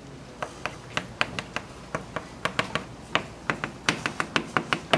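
Chalk writing on a blackboard: a quick, irregular run of sharp taps and clicks, several a second, as the strokes are written.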